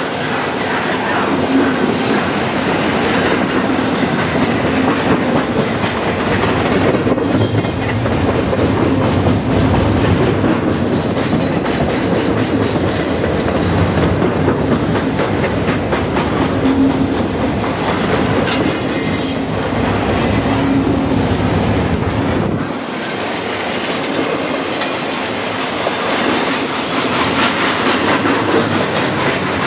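Double-stack intermodal container train's well cars rolling past: a steady loud rumble and clatter of steel wheels on rail. Brief high squeals of wheels on the rail come about two-thirds of the way through and again near the end, and the deep rumble thins out about three-quarters of the way in.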